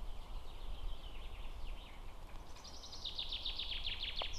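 A small songbird singing a rapid series of short falling notes that grows louder toward the end, over a steady low rumble.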